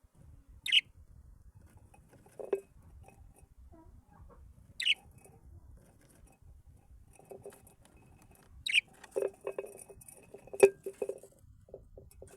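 Cage birds calling: three short, sharp chirps about four seconds apart, with scattered light tapping and rustling that thickens into a cluster of knocks near the end.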